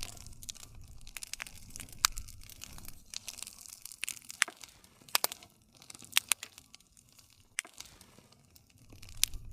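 Wood fire crackling, with irregular sharp pops and snaps over a low rumble of the burning fire.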